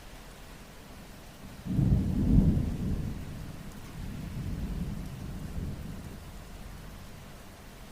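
Thunder starts suddenly about two seconds in, rumbles, swells again a couple of seconds later and fades, over a steady hiss of rain.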